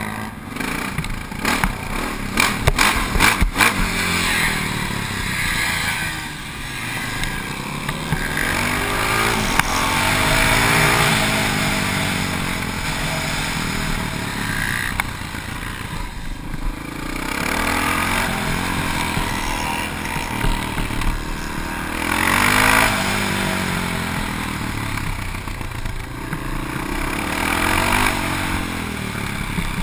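Honda XR650R's big single-cylinder four-stroke engine, heard from a camera mounted on the bike, revving up and falling back again and again as it accelerates out of corners and shuts off for the next. A few sharp knocks come in the first few seconds.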